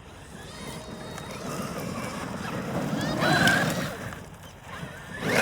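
Traxxas X-Maxx electric RC truck driving on dirt, getting louder to a peak about three and a half seconds in and then fading.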